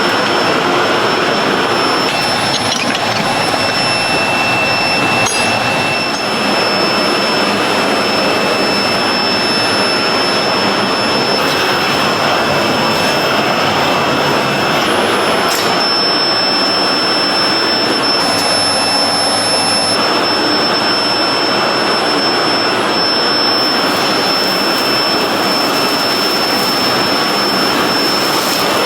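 Loud, steady noise of factory machinery with a few thin high whines over it, changing character abruptly several times.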